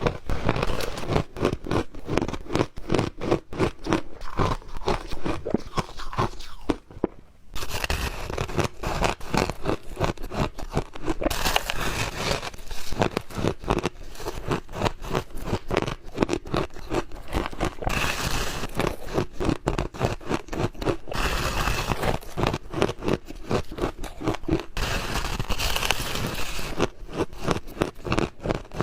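Ice being bitten and chewed close to the microphone: fast, continuous crunching and cracking, with a short pause about seven seconds in.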